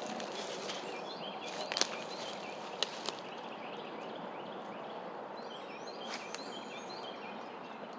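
Outdoor ambience with small birds chirping over and over against a steady background hiss. A few sharp clicks come about two and three seconds in, and two more about six seconds in.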